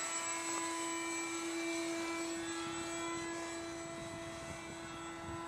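Electric ducted fan of a radio-controlled F-22 jet whining steadily in flight, several held tones over a rushing hiss.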